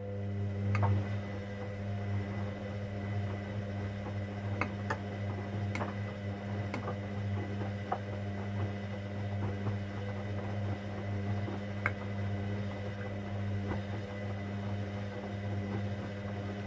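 Hoover Dynamic Next washing machine's drain pump humming steadily for about seventeen seconds with scattered light clicks and ticks, then cutting off abruptly.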